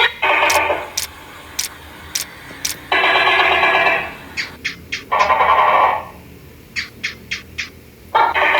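Electronic sound effects from a cat game app: four short buzzy tones, each about a second long, alternating with quick runs of sharp clicks, several clicks about a fifth of a second apart.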